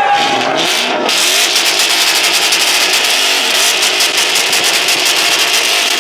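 Car engine revving hard: a loud, steady, rushing roar that starts about a second in and holds.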